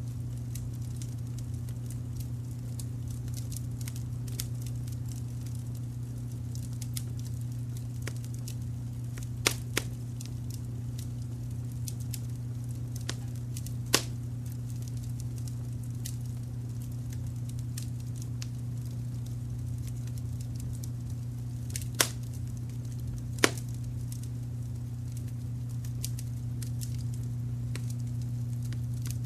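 Wood fire crackling with scattered small snaps and a few louder pops, over a steady low rumble of brown noise.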